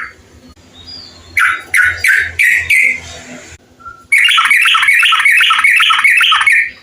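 Yellow-vented bulbul (trucukan) singing: a few separate, falling chirps, then after a short pause a loud, fast run of repeated chattering notes, about five a second, that stops near the end.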